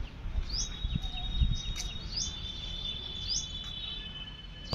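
Birds calling outdoors: a short rising chirp repeated about once a second, joined about two seconds in by a thin, steady high-pitched trill, over a low rumble of background noise.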